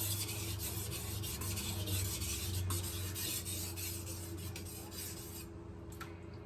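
Kitchen knife blade being stroked back and forth on a whetstone, a steady scraping rasp as the end of the blade is worked to raise a burr. The scraping stops about five and a half seconds in.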